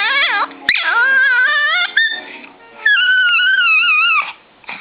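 A dog whining and howling in long, high-pitched, wavering cries, three in a row with the last two drawn out, and a sharp click about 0.7 seconds in.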